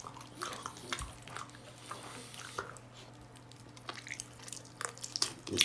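Close-miked eating of spicy seafood: wet chewing, lip smacks and short sticky clicks, scattered irregularly over a steady low hum.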